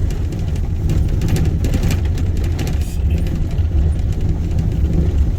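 Truck driving slowly over a rough, bumpy dirt road, heard from inside the cab: a steady low rumble of engine and tyres, with scattered rattles and knocks from the jolting.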